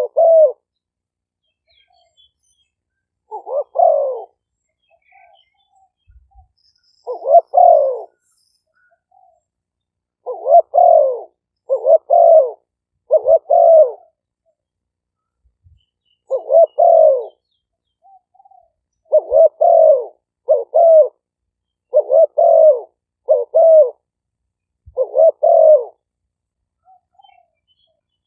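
Spotted dove cooing: short coo phrases repeated over and over, singly or in quick groups of two or three, with pauses of a second or two between. This is the song of a decoy dove, recorded for playing through a speaker to lure wild doves.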